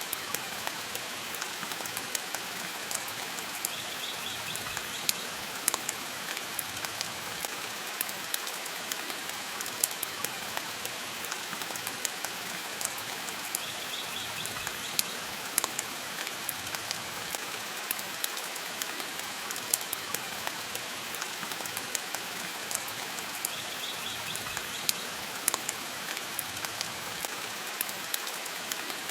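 Steady rain with a wood fire crackling in a fireplace: an even hiss dotted with sharp pops and ticks. A faint high chirp comes three times, about ten seconds apart.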